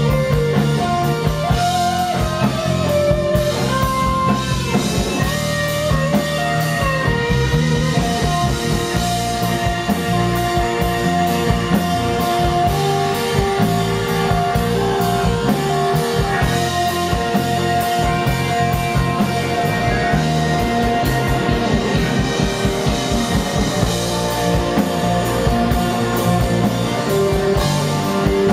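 Live blues-rock band playing: an electric guitar lead of held, bending notes over bass and a drum kit.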